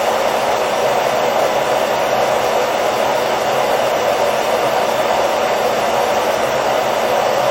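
Hair dryer running steadily, a constant whooshing rush of air with a faint motor hum, used as white noise to lull a baby to sleep.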